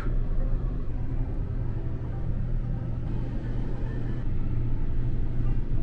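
Steady low rumble of a KTX-EUM high-speed train running, heard from inside the train, with a short click at the very start.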